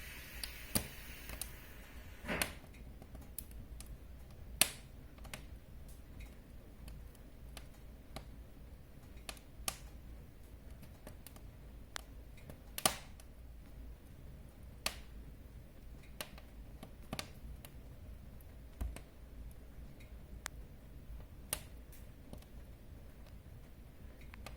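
Wood fire crackling in a fireplace: irregular sharp pops and snaps, every second or two, a few of them louder, over a faint steady low background.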